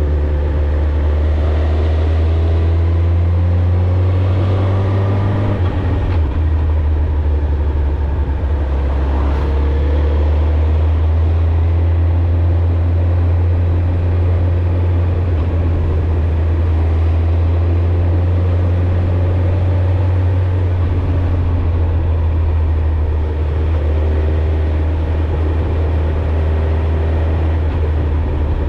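Suzuki GSX-R1000's inline-four engine and exhaust running steadily as the bike is ridden. It holds an even low drone with little change in revs, shifting slightly about six seconds in.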